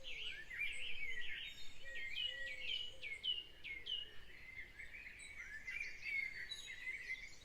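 Birds chirping and calling, with a run of short falling whistled notes about two to four seconds in.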